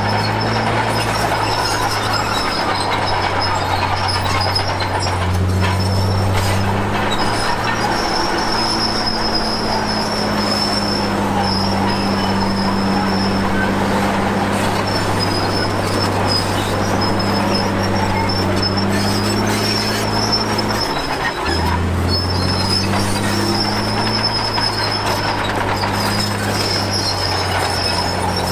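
Komatsu D53P crawler bulldozer working, its diesel engine running steadily with a steady high-pitched squeal from the tracks. The engine note dips briefly and shifts about three-quarters of the way through.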